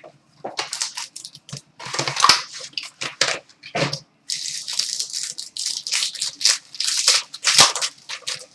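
Hockey card box being torn open by hand: irregular crinkling and tearing of plastic wrap and cardboard, with a long stretch of dense crackling in the middle.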